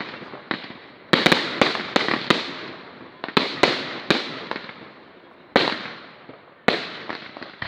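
Fireworks display: about ten sharp shell bursts, several coming in quick clusters, each bang dying away over a second or so.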